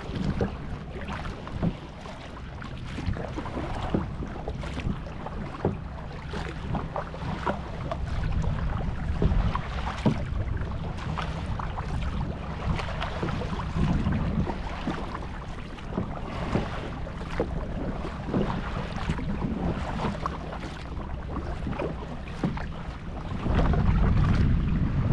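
Water splashing and lapping around a kayak as it is paddled, with wind rumbling on the microphone. The wind gets stronger near the end.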